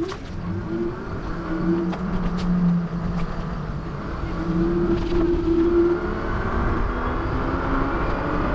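A motor vehicle's engine running close by over a steady low rumble of road and wind noise, its pitch rising slightly near the end.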